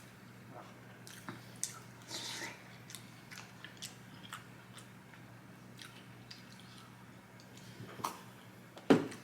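Close-up eating sounds: chewing with wet mouth clicks and smacks scattered throughout, a short noisy crunch or rustle about two seconds in, and one sharp knock just before the end.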